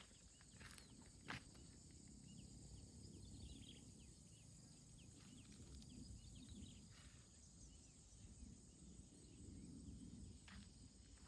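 Near silence: quiet outdoor ambience with a faint low rumble, a few soft footsteps scattered through it, and faint high chirps a few seconds in.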